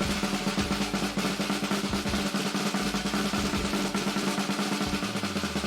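Snare drum roll, rapid and steady, over held musical tones, with low bass notes coming in near the end.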